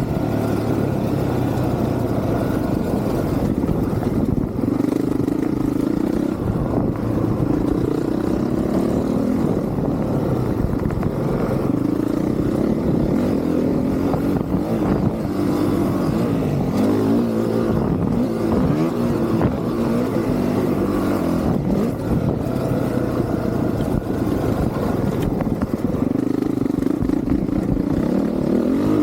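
Honda CRF450R's single-cylinder four-stroke engine being ridden hard, its pitch rising and falling again and again as the throttle is opened and closed.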